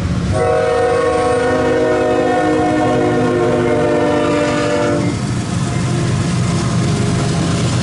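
Diesel locomotive air horn sounding one long blast of about five seconds, a chord of several notes, over the steady low rumble of a passing freight train's engines and wheels, which carries on after the horn stops.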